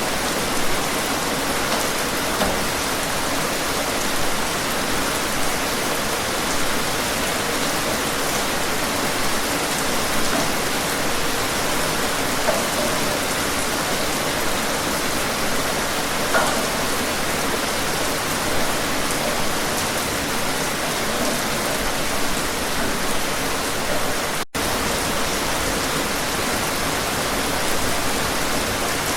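Steady rain falling, an even hiss with scattered individual drops ticking through it. The sound cuts out for a split second about two-thirds of the way through.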